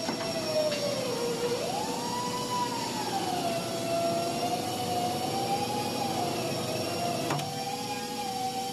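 Tyre retreading machine's motor running steadily, its whine sagging and rising slowly in pitch over a background of mechanical noise, with a couple of faint clicks.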